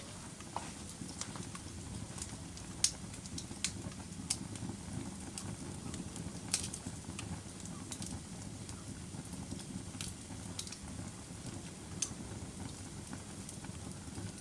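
Wood fire crackling in a fireplace: irregular sharp pops, about one a second, over the steady low rumble of the flames.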